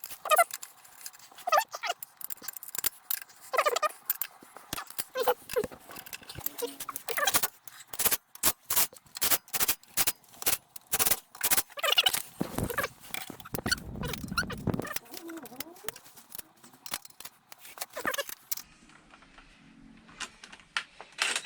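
Irregular metallic clicks and clinks of hand tools and parts being handled during scooter transmission reassembly, with a dense run of rapid clicks through the middle.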